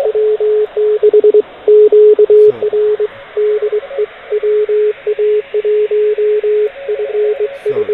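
Morse code (CW) signal received on an amateur radio transceiver: a steady tone keyed on and off in dots and dashes over band hiss. The hiss is shaped by digital bandpass filters being adjusted.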